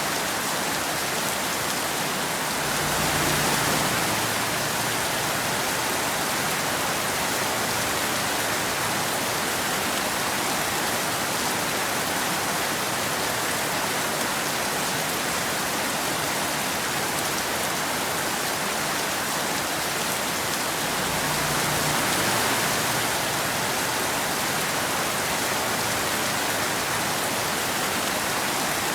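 Steady, even rain. It swells slightly and briefly twice, about three seconds in and again about twenty-two seconds in.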